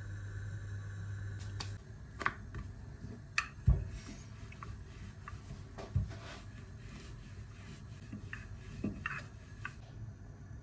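Kitchen handling sounds: a steady electric hum cuts off about two seconds in, followed by scattered clicks and knocks of utensils and dishes being handled, the loudest a single thump about a third of the way through.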